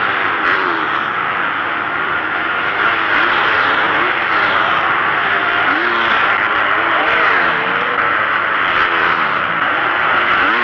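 Motocross bike engines revving hard, their pitch rising and falling again and again as riders take the jump, several bikes overlapping over a dense steady noise.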